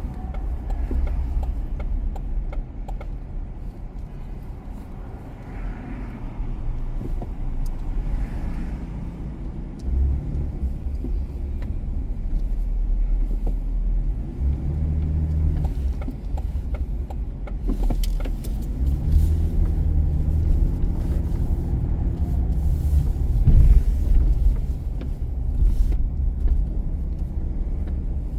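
A car driving through city streets: steady low road and engine rumble, with an engine hum that swells twice as the car pulls away.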